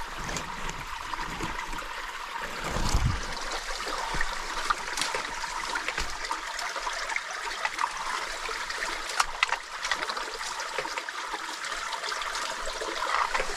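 Shallow stream water running and trickling steadily over rocks, with a brief low thump about three seconds in.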